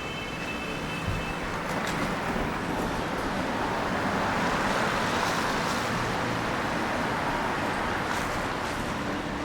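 Traffic on a wet road: tyres hissing on the wet surface, swelling as a vehicle passes in the middle and then easing off.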